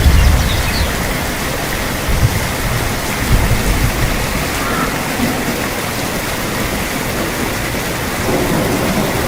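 Steady rain, with a low rumble of thunder at the start that dies away within the first second and weaker rumbles two to three seconds in.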